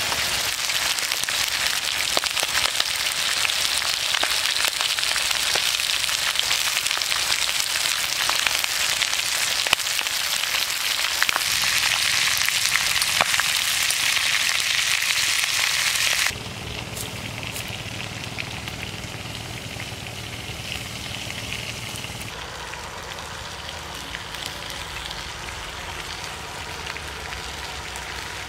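Eel pieces frying in hot oil in a wok: a dense sizzling hiss full of small crackles and pops. About sixteen seconds in it drops suddenly to a quieter sizzle with a faint low hum underneath.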